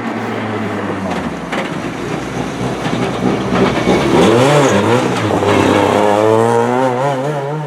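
Rally car engine at full race revs as the car drives past, its pitch dropping about a second in, rising and falling quickly in the middle, then climbing again near the end.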